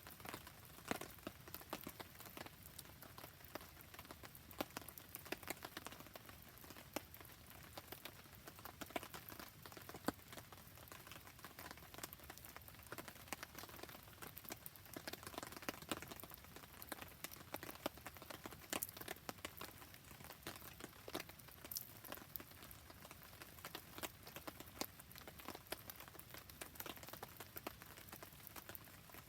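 Rain falling with a campfire burning: a steady patter of drops and frequent small sharp pops and crackles.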